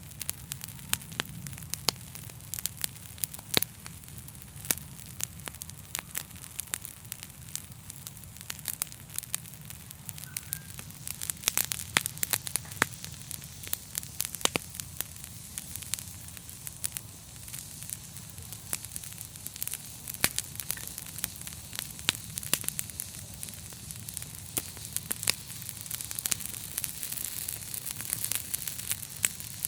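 Fire in a fireplace crackling, with frequent irregular sharp pops over a steady low background.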